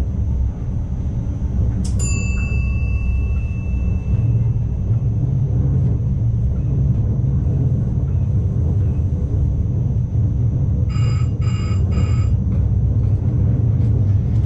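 Steady low rumble of an ICMm intercity train running, heard from the driver's cab. About two seconds in a single bell-like chime strikes and rings out, and about eleven seconds in the cab sounds three short electronic beeps.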